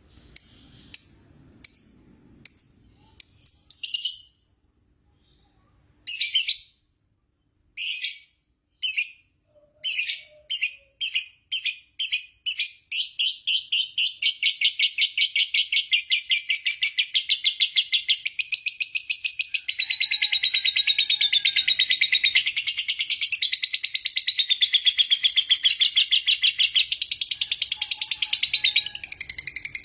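Lovebird singing its long 'ngekek' chatter: short high-pitched chirping bursts with a brief pause, then a continuous fast-pulsed trill that runs on unbroken through the second half.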